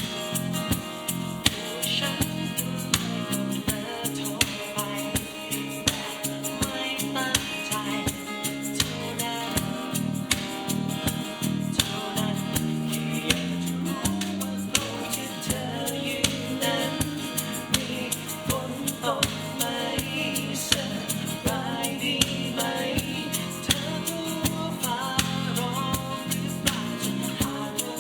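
Band playing a pop song: a singing voice over guitar and drums, with a steady beat.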